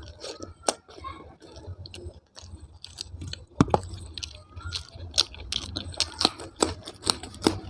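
A person chewing food with the mouth close to the microphone: many wet smacks and sharp mouth clicks, coming faster from about halfway through.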